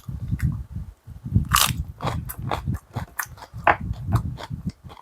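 A person chewing food with crunching and many short sharp clicks.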